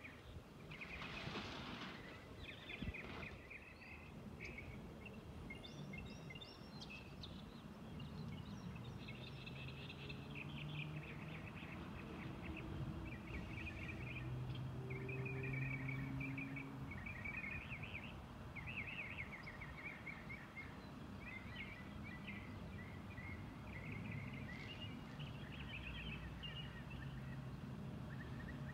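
Small birds chirping and trilling in quick repeated notes, over a faint low engine hum from a truck idling.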